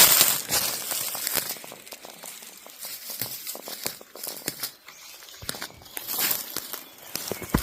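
Dry leaves and undergrowth rustling and crinkling, with many scattered sharp snaps and ticks, the loudest burst right at the start.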